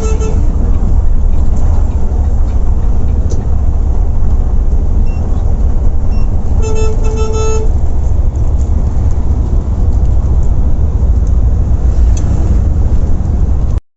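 Volvo B8R coach on the move, a loud steady low rumble of engine and road noise. A horn honks twice, a short toot then a longer one, about seven seconds in; the sound cuts off abruptly just before the end.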